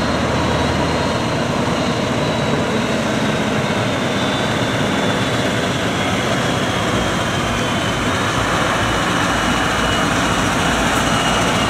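Steady, loud engine noise with a faint high whine that slowly falls in pitch.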